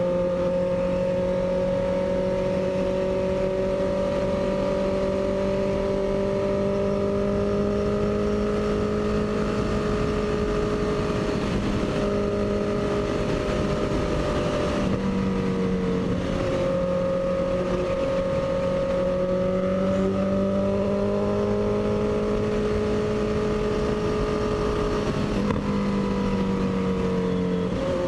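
Honda CB650F inline-four engine running at a steady cruise, its pitch dipping briefly and climbing back several times as the throttle or gear changes, with wind rush over it.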